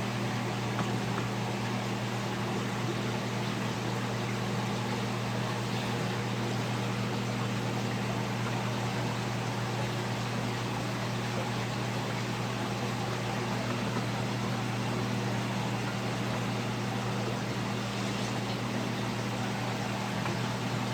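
Steady hum of aquarium pumps and filtration with a hiss of moving water, unchanging throughout.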